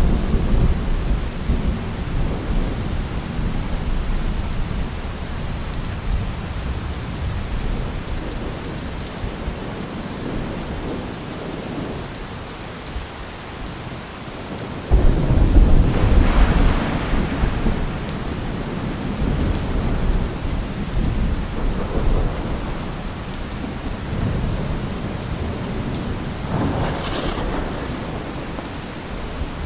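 Thunderstorm: steady heavy rain with rolling thunder. A long rumble fades out over the first dozen seconds, then a sudden close thunderclap about halfway through is followed by a long rumble, and a shorter peal comes near the end.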